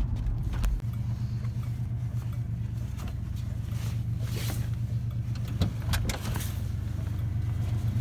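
Old pickup truck with dual exhaust driving, its engine a steady low rumble, with a few light clicks and knocks over it.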